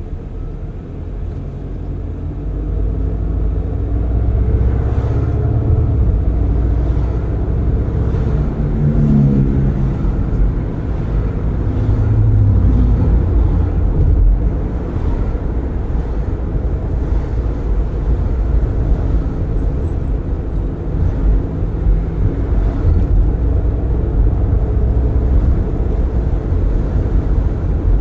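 Car driving with its windows open: steady low road and tyre rumble, with an engine climbing in pitch from about four seconds in to about ten seconds in as it speeds up, then settling.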